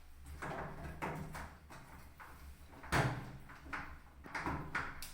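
Knocks and clatter of hard parts being handled during a washing machine repair, with one louder knock about three seconds in.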